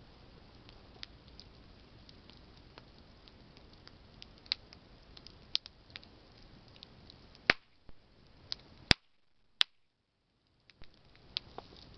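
Campfire of burning branches crackling: irregular sharp pops and snaps over a low hiss of the flames. About two-thirds of the way in, the sound drops away almost to silence for about three seconds, broken by two sharp clicks, then the crackling returns.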